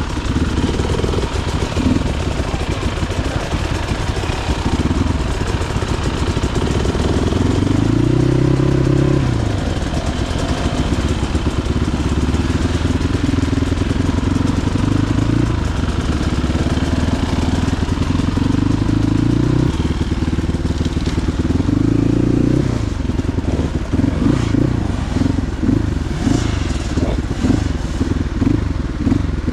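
Motorcycle engine running, its pitch rising and falling several times as it is revved. Over the last few seconds it turns to quick, uneven pulses.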